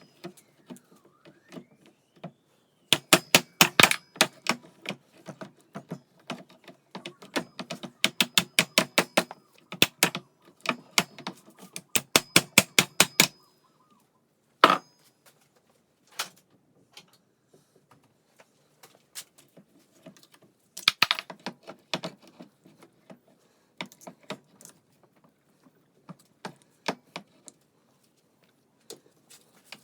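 Hand tools working on metal: bursts of rapid, sharp metallic clicks, several a second, in groups with pauses between.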